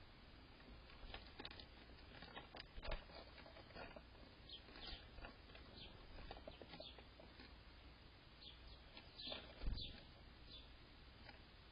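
Faint, short, high chirps from small birds, scattered irregularly, mixed with light scratching and rustling, and two soft thumps, one about three seconds in and one near the end.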